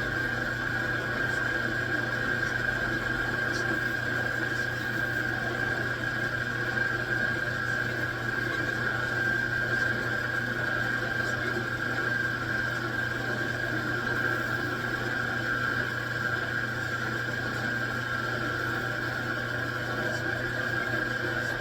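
Metal lathe running steadily, a constant whine over a low hum.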